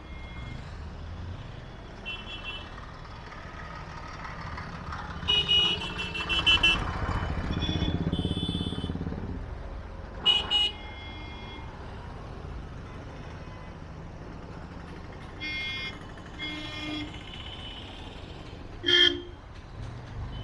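Motorcycle engine running at low speed in congested traffic, with vehicle horns tooting many times. There is a rapid run of beeps a few seconds in, and single sharp toots near the middle and near the end.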